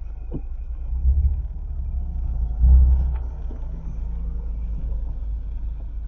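Low rumble of a Mazda MX-5 ND driving slowly, heard from inside the cabin, swelling louder twice.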